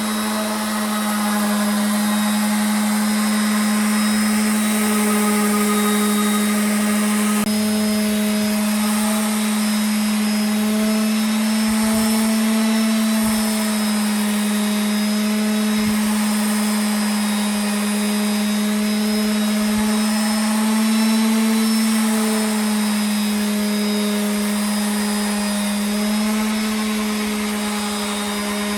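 Electric power tool motor running steadily, with a strong even hum and a high hiss.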